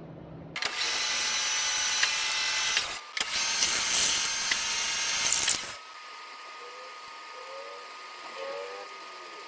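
Lathe cutting, loud and noisy with a steady whine, in two spells broken by a short pause about three seconds in. It then drops to a quieter steady running hum with a thin constant tone and a few short gliding tones near the end.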